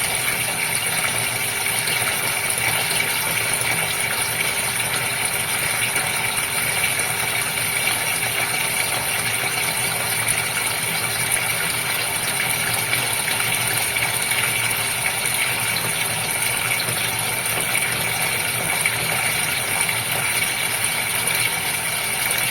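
Aquarium pump running steadily with moving water, an even, unbroken hiss with a faint hum under it.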